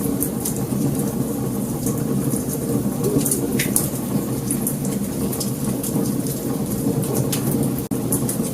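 Wood fire burning: a steady low rumble of flames with frequent sharp crackles and pops. The sound drops out for a split second near the end.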